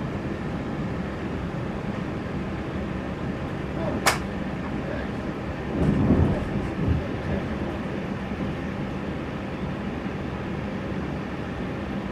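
Interior noise of an electric commuter train carriage slowing to a stop at a station: a steady rumble with a low hum, a sharp click about four seconds in, and a brief louder low swell about six seconds in.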